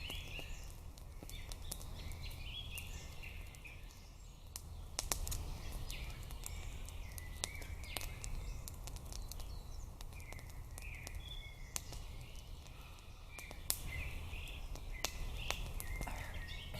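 Small birds chirping and singing on and off, with scattered sharp clicks and a steady low rumble underneath.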